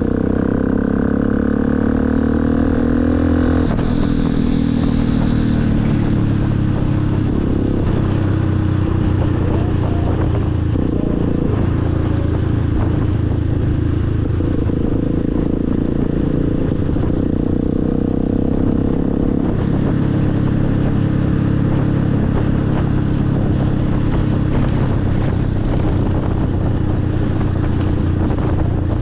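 Motorcycle engine running under way, climbing in pitch for the first few seconds and dropping about three and a half seconds in, then holding a fairly steady note.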